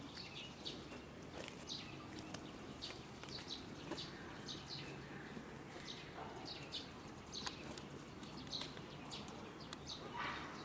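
Small birds chirping, short high chirps repeating every second or so, over a faint steady background hum.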